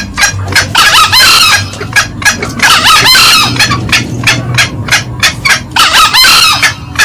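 Green junglefowl calling: a rapid run of short, repeated cackling notes, about three to four a second, with a longer, brighter crow-like call breaking through three times. Male and female calls are mixed, as used for a lure call.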